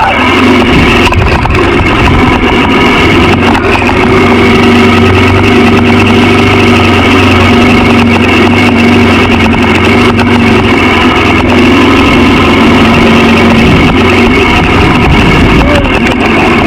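Honda XR650L's air-cooled single-cylinder engine running at a steady pitch.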